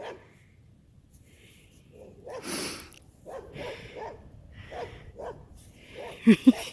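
A dog barks twice in quick succession near the end, after a few seconds of faint scuffling and rustling.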